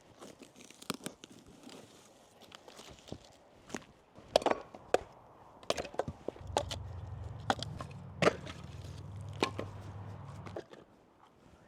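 Wood being chopped: a series of sharp, irregular knocks of a blade biting into wood, loudest and most frequent in the middle.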